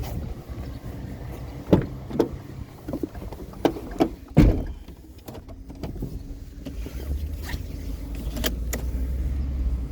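A vehicle's engine running, with several sharp knocks and clunks over the first half. From about seven seconds in a deeper, louder low rumble builds as the engine takes load and the vehicle moves off.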